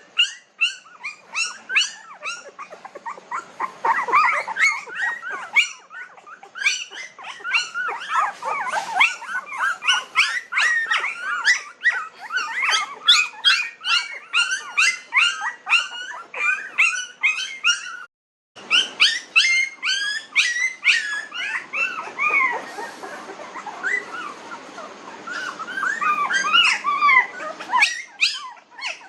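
A litter of very young Pomeranian puppies, about 19 days old, whimpering and squeaking. The short high-pitched cries overlap, several a second, with a brief break a little past the middle.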